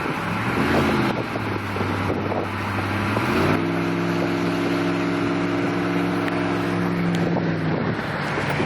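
Jeep Commander's 4.7-litre V8 running with no muffler on the move: a low, steady drone, then about three and a half seconds in the pitch climbs quickly and holds at higher revs for about four seconds before dropping back near the end.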